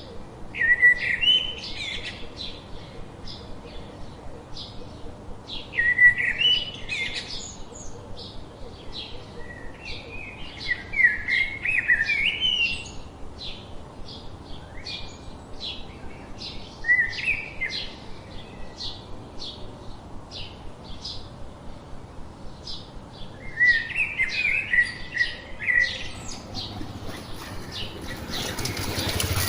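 Songbirds singing: a loud warbled phrase recurring every few seconds over a steady stream of short, high chirps from other birds. A rushing noise rises near the end.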